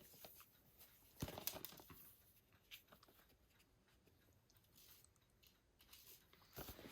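Faint handling of a cardboard box and its contents: a few soft scrapes and light knocks, a cluster about a second in and another near the end, with near silence between.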